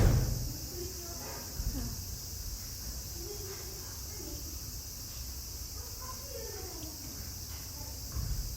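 A steady, high-pitched insect drone, with a loud thump at the start and softer thumps about a second and a half in and near the end.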